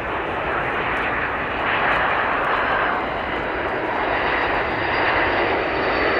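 Recorded sound of an airplane's engines: a steady rushing drone with slow swells in loudness.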